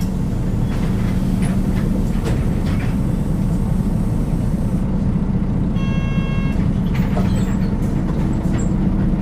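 Interior running sound of a Nissan Diesel KL-UA452KAN city bus under way: a steady engine drone with road noise. A short electronic tone sounds once about six seconds in.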